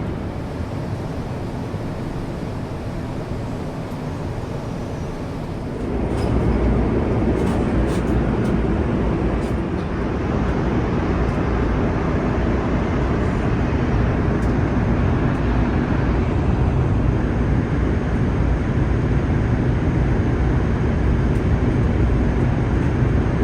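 Steady low rumble of vehicle noise with a hiss above it, getting louder about six seconds in and then holding steady.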